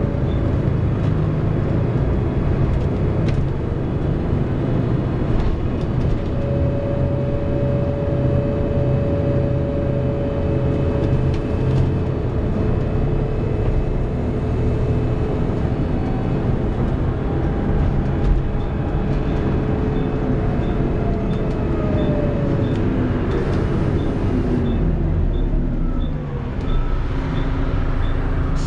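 Inside a Volvo B7TL double-decker bus on the move: a heavy low rumble with steady whines from the engine, driveline and hoover-like cooling fan. Near the end the whines glide down as the bus slows, and a light regular ticking starts.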